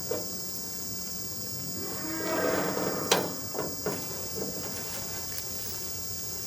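Dexter cow lowing once, about two seconds in, over steady insect chirring. A single sharp click follows right after the call.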